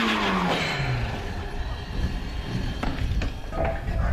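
Rally car engine note falling steeply in pitch during the first second as the car goes away, then a low rumbling din with a few faint knocks.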